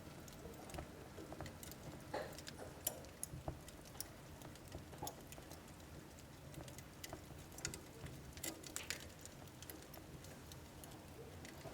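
Wood fire in a home wood-burning stove crackling quietly: irregular sharp pops and crackles, a few louder ones, over a soft low rush of the burning fire.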